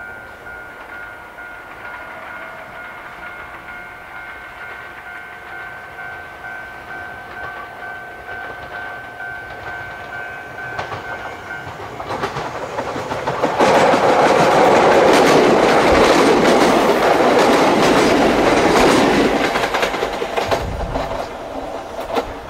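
Steady electronic ringing, typical of a Japanese level-crossing warning bell, for about the first half. Then a Yoro Railway electric train comes up and passes close by: a loud rumble with wheels clattering over rail joints for about six seconds, fading away near the end.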